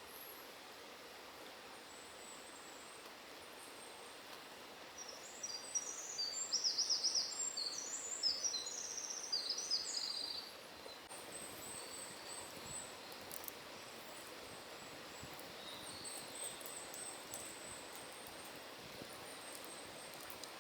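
A songbird singing a rapid, intricate burst of high notes for about five seconds, over a steady rush of forest stream water, with fainter thin bird calls in the background.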